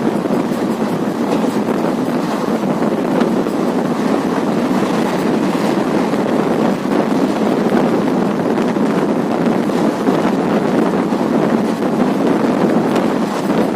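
Steady running noise of a moving passenger train, with wind buffeting the microphone.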